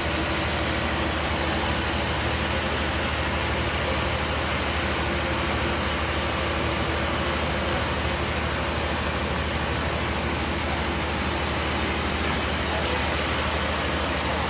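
Bandsaw sawmill running, a steady low hum under an even wash of machine noise with no breaks.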